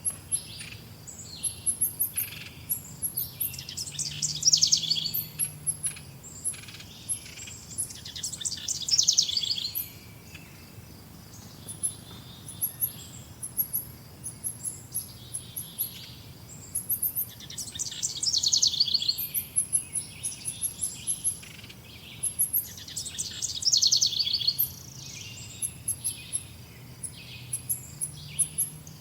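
Several songbirds singing and chirping: a rapid trilled song of about two seconds recurs four times, with many short, high-pitched chirps in between.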